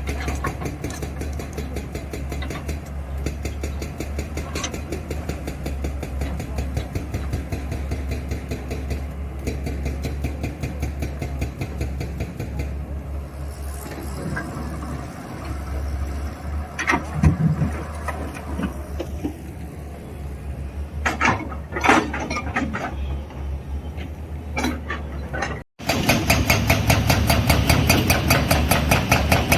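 JCB digger's diesel engine running steadily with an even rapid clatter, with a few sharp knocks in the middle and the engine louder over the last few seconds.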